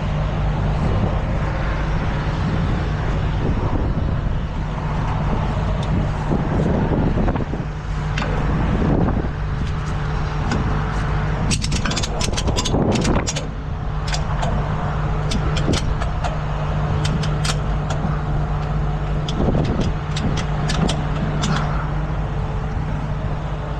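Truck engine idling steadily with a constant low hum. From about halfway through come repeated sharp metallic clicks and clanks, as of chains, hooks or strap hardware being handled.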